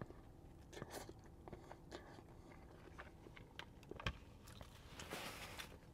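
Faint chewing of a mouthful of ramen noodles, with small scattered mouth and utensil clicks and one sharper tick about four seconds in.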